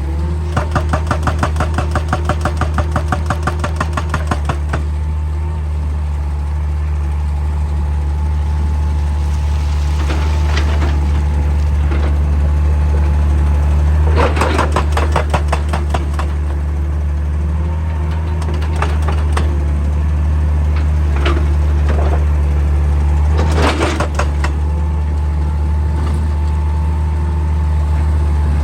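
Excavator's diesel engine running steadily under load, with bursts of rapid rhythmic blows from a hydraulic breaker hammering rock: a long burst in the first five seconds, another about halfway through, and shorter ones between.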